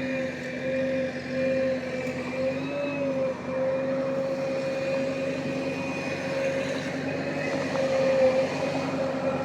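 JCB construction machine's diesel engine running steadily, a constant droning tone that wavers slightly in pitch now and then.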